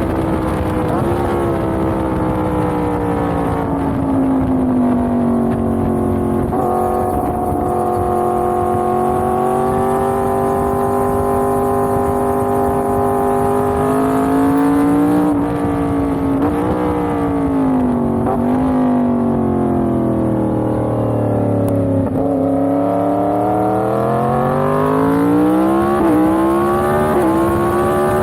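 Yamaha MT-10's crossplane inline-four engine running under way, its pitch falling, holding steady, dipping and then climbing for a long stretch near the end as the throttle is opened and closed.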